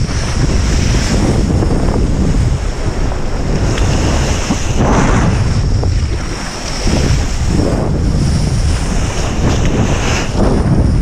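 Strong wind buffeting the microphone over rushing water as a kiteboard rides through waves, with several surges of spray hiss.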